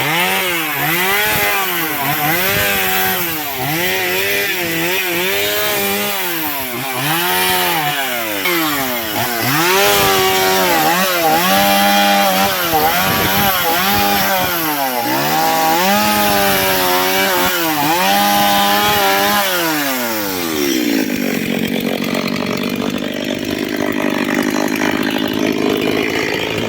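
Chainsaw cutting firewood, its engine pitch dipping and rising over and over as the chain bites into the wood. About twenty seconds in it drops to idle.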